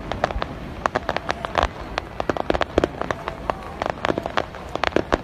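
Fireworks crackling: a dense, irregular run of sharp pops and snaps, dozens within a few seconds, as glittering crackle stars burst.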